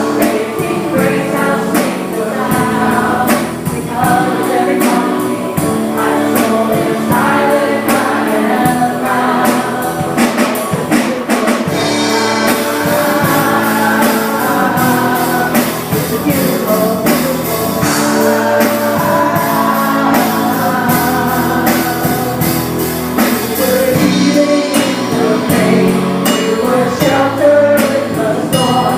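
A worship band and group of singers performing a gospel song, voices singing together over instruments with a steady percussion beat.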